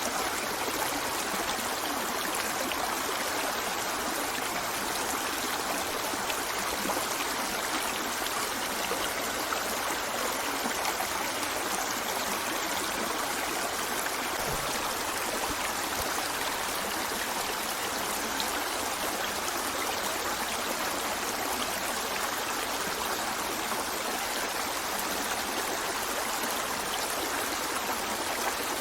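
A river flowing steadily, a continuous even rush and babble of water with no breaks or changes.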